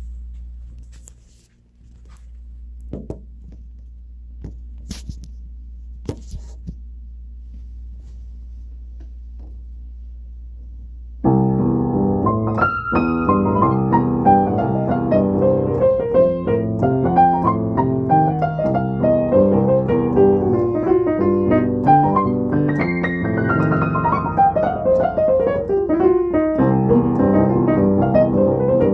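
A low steady hum with a few faint clicks. About eleven seconds in, piano playing starts abruptly and carries on, with quick runs of notes going down and up the keyboard.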